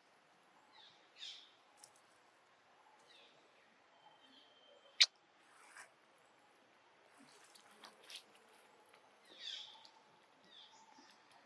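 Baby monkey giving several short, high squeaks that fall in pitch, a few seconds apart. A single sharp click about five seconds in, and a few softer clicks later.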